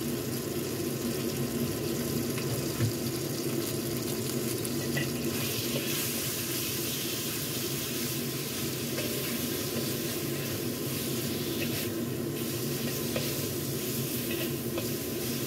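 Marinated sliced beef sizzling steadily in hot oil in a wok, stirred with a metal spatula in the second half.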